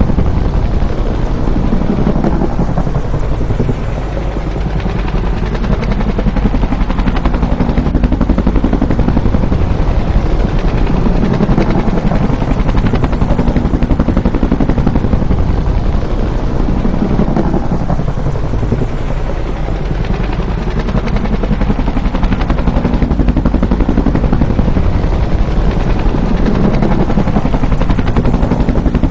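Bell UH-1 Huey helicopter, its two-blade main rotor beating with a rapid, steady chop over the running turbine. The loudness eases slightly twice and comes back up.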